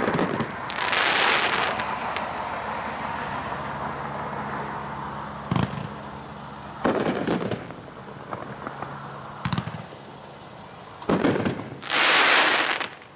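Yowza, a 21-shot 500-gram consumer firework cake, firing its last shots, heard from about 175 yards: scattered booms of breaking shells and hissing crackle. The loudest crackling burst comes near the end, then the cake falls silent.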